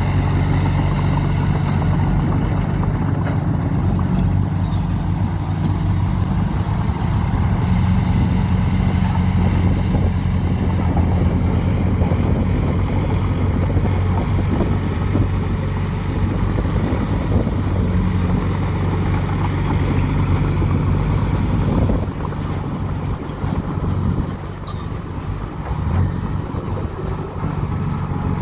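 Heavy diesel earthmoving machine's engine running steadily, becoming somewhat quieter about three-quarters of the way through.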